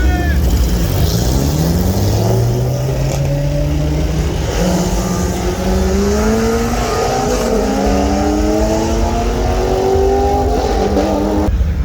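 Car engine accelerating hard, its pitch climbing steadily over several seconds.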